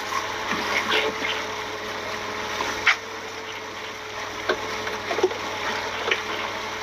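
Small fishing speedboat under way: a steady hum from its motor over the rush of water, with a few sharp knocks. The loudest knock comes about three seconds in.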